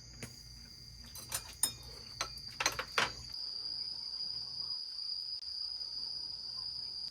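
Insects chirring steadily on one high, unbroken tone, with a few sharp clicks and knocks between about one and three seconds in.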